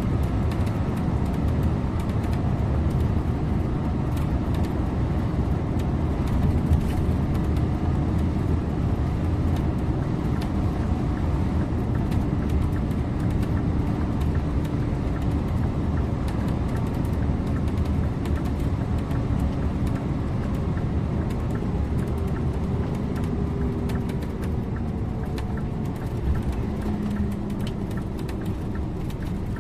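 Scania InterLink bus on the move: steady engine and tyre noise with a low rumble, heard from inside at the driver's seat. It gets slightly quieter over the last few seconds.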